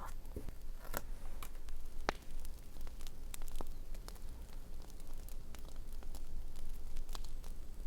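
Campfire crackling: scattered small pops and snaps at irregular intervals over a faint steady hiss.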